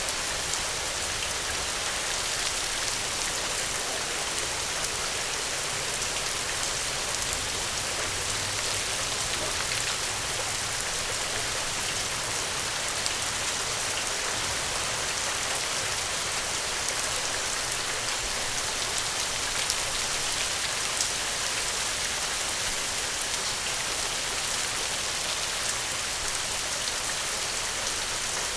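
Steady rain falling, a continuous hiss of drops with many small pattering ticks.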